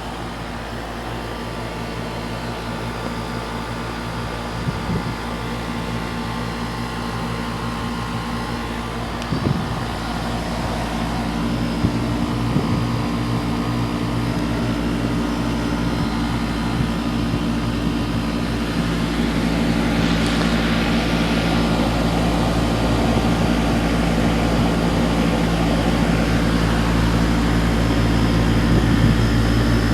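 Outdoor central air-conditioner condenser running: a steady mechanical hum with a low fixed drone that slowly grows louder, and a brief hiss about twenty seconds in.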